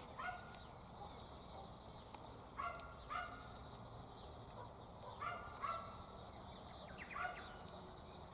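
Faint short animal calls, mostly in pairs about half a second apart, repeating every two to three seconds, with tiny high chirps in between.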